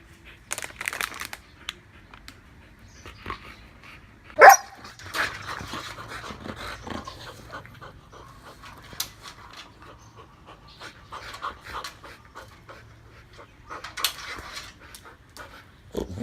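Siberian huskies panting and snuffling, with one short, sharp bark about four and a half seconds in. A husky's wavering, pitch-bending vocal call begins right at the end.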